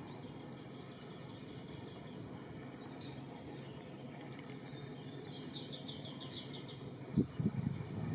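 Steady low background noise with faint high chirps, including one short rapid trill about two-thirds through. Near the end come louder irregular knocks and rustling.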